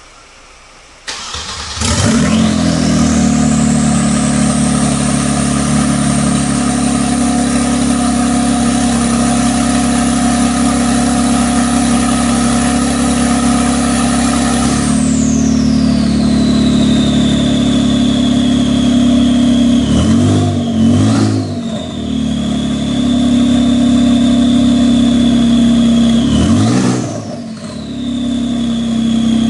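Kia Stinger GT's twin-turbo V6, running catless downpipes, cold starting about a second in and settling into a loud, high fast idle with a high whine. About halfway through the idle drops and the whine falls in pitch. Short throttle blips come twice near the 20-second mark and once more near the end.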